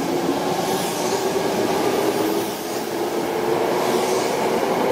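Electric commuter train moving along the platform: a steady run of wheels on rail with a held low tone from the train's running gear.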